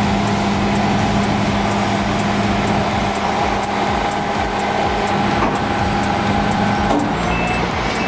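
Heavy diesel log-handling machine running steadily under load, with a reversing alarm starting to beep near the end.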